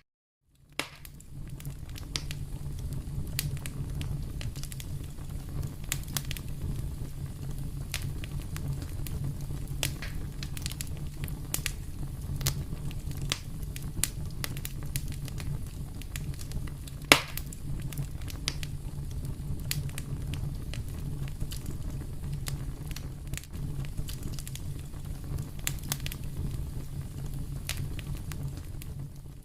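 Wood fire crackling in a fireplace: a steady low rumble of flames with frequent small pops and one sharp, loud pop about halfway through. The sound comes in after a moment of silence at the start.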